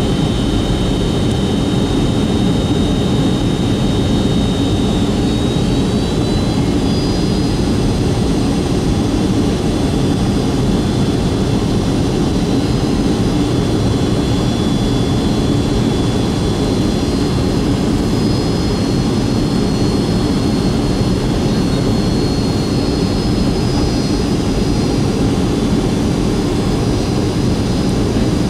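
Cabin noise of a Boeing 757-200 in flight with Rolls-Royce RB211 jet engines: a steady rush of engine and airflow noise with a thin high whine. The whine steps up in pitch about six seconds in, a sign of a change in engine thrust.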